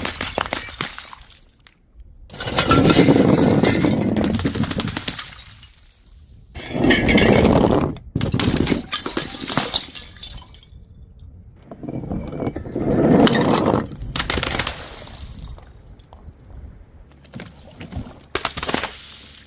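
Glass bottles being smashed and crushed: several bursts of shattering and crunching glass with tinkling shards, separated by short quieter gaps.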